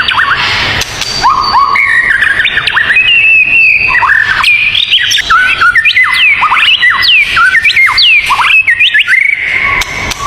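Songbird singing: a fast, continuous string of loud whistled notes, many sweeping sharply up or down.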